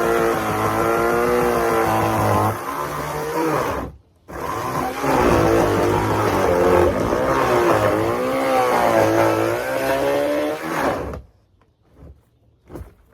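Chainsaw cutting through a hot tub, its pitch dipping and rising as it takes the load. It cuts out briefly about four seconds in, runs again, then stops suddenly near the end, followed by a couple of faint knocks.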